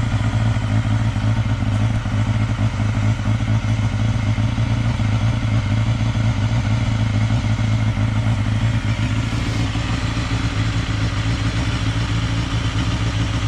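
Honda CBR250RR MC22's inline-four engine running at a steady speed through a Beet Nassert slip-on muffler, with an even, unchanging exhaust note.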